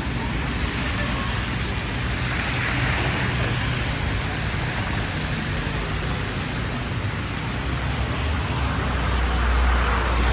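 City street traffic: vehicles running past in a steady wash of noise, with a heavier vehicle's low engine rumble swelling near the end.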